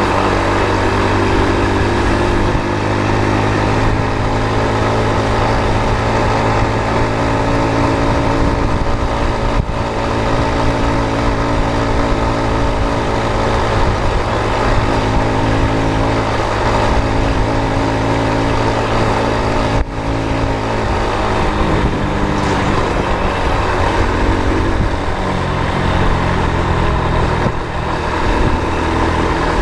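Motor vehicle engine running on the road, steady, with its pitch shifting a little as the revs change.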